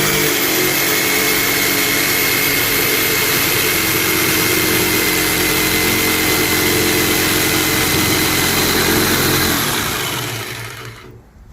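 Corded DeWalt jigsaw running flat out, its carbide blade sawing steadily through composite decking with a constant high whine. Near the end the motor winds down and stops.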